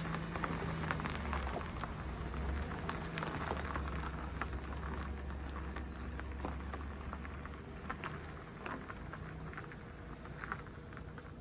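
Insects calling in a steady high chorus, with scattered light crackles and ticks over a low hum.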